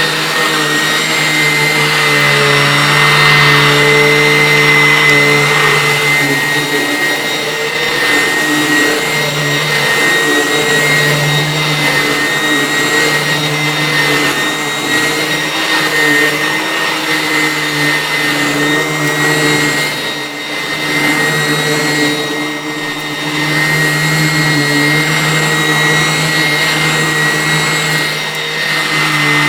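Vacuum cleaner running steadily, with a constant motor hum and a high whine that hold one pitch, the level dipping slightly now and then.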